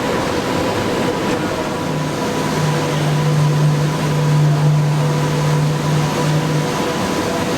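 Röders RXP801 high-speed milling machine cutting hardened tool steel: a steady machining noise with a strong low hum that comes in about two seconds in and starts breaking up near the end.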